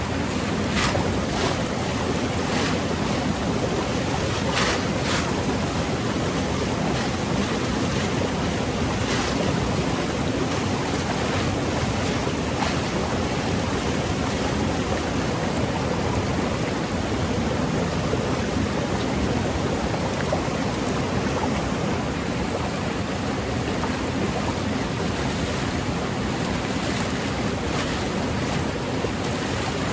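Steady rush of flowing water, with a few faint ticks in the first half.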